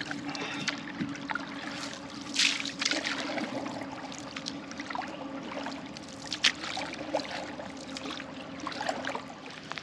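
Canoe paddling: water trickling and splashing off the paddle, with a couple of sharper splashes about two and a half and six and a half seconds in, over a low steady hum.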